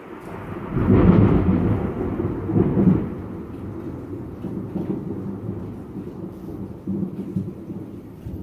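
Thunder from a close lightning strike: a low rumble that swells sharply about a second in, surges again near three seconds, then keeps rumbling with another smaller surge near seven seconds.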